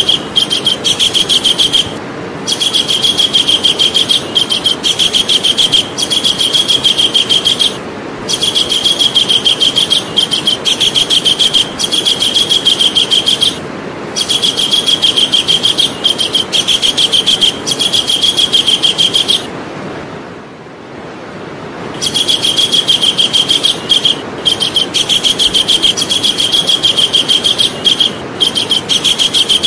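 Javan kingfisher calling: long runs of rapid, evenly repeated shrill notes lasting several seconds each, with short pauses between runs and a longer break about twenty seconds in, over a steady hiss.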